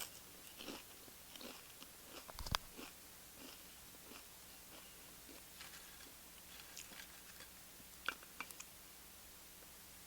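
A person chewing corn tortilla chips close to the microphone, with soft crunching throughout, one sharp crunch about two and a half seconds in and a few crisp crunches near the end.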